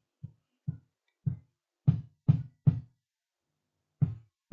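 A row of short, dull knocks, about seven in four seconds at uneven spacing, from objects being handled and set down on a workbench.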